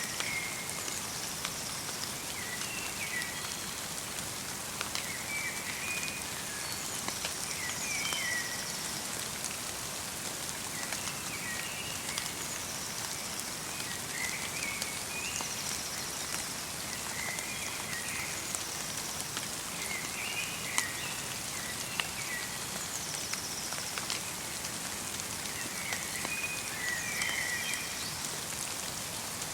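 Steady light rain falling on the forest, with scattered drips, while a small bird calls over it in short chirps every couple of seconds.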